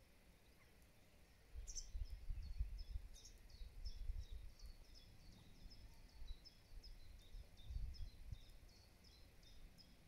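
A small songbird singing a long run of short, high, evenly repeated notes, about three a second, starting about a second and a half in. A gusty low rumble runs underneath.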